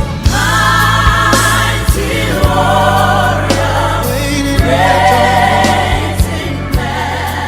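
Gospel choir music: voices singing long held notes in phrases over steady bass and sharp drum hits.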